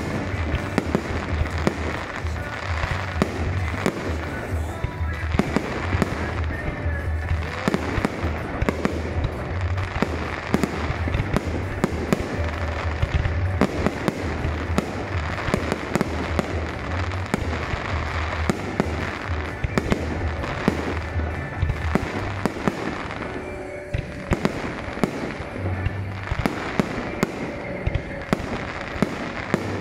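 Fireworks display: a continuous barrage of shell bursts and crackling, the bangs coming thick and fast with no pause, and music playing along.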